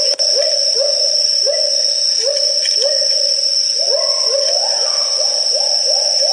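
Great argus calling: a series of short, upward-sliding notes that come faster from about four seconds in. A steady high-pitched whine runs behind it.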